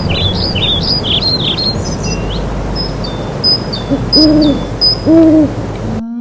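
Wild birds calling: a run of quick high chirps and whistles over a steady outdoor hiss, then two short low calls about four and five seconds in.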